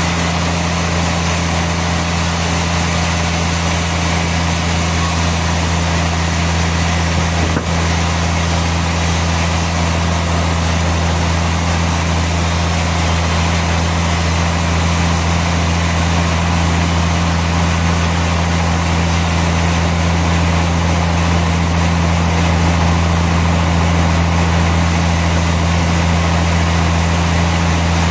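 Sawmill machinery running steadily with a constant low hum and noise, with one brief click about seven and a half seconds in.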